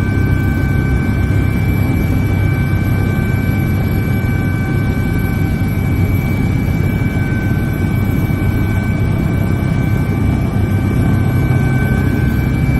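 Helicopter noise heard from inside the cabin: a loud, steady rumble with a high whine held over it.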